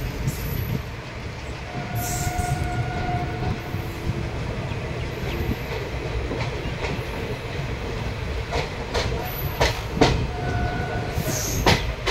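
Indian Railways express coach rolling on the track, heard from its open doorway: a steady rumble with wheels clicking over rail joints and points, a run of sharper knocks in the second half, and a couple of brief wheel squeals.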